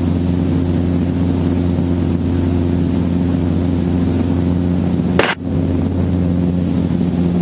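Helicopter drone heard inside the cabin: a steady, loud hum of evenly spaced low tones over a hiss, with a short click and dip about five seconds in.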